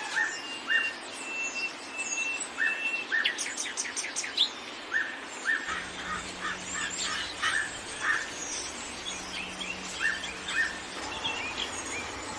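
Several songbirds chirping and calling together, short repeated notes and quick slurred whistles overlapping over a steady background hiss.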